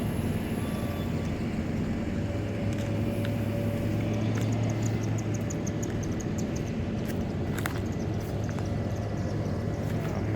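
Car running at low speed, a steady engine and road rumble with a low hum, heard from inside the vehicle. About halfway through there is a brief run of rapid, high-pitched ticks.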